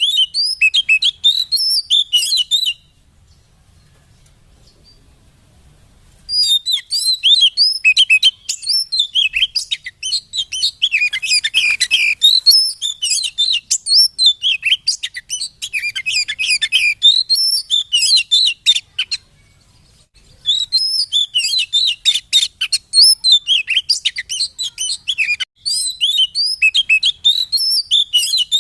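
Oriental magpie-robin (kacer) singing a fast, varied, high-pitched chattering song, used as a lure recording to set other magpie-robins singing. The song comes in three long bouts, breaking off at about three seconds in and again briefly near twenty seconds.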